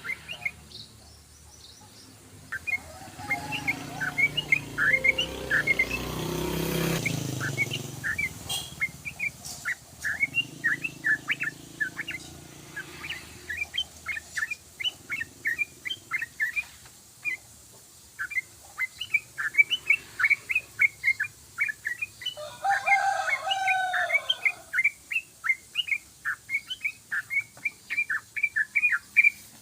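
Yellow-vented bulbul (trucukan) singing a long, fast run of short chirping notes, several a second, without a break. About 23 s in, a lower, longer call of another bird cuts across it for a second or two, and a low rumble swells and fades in the first several seconds.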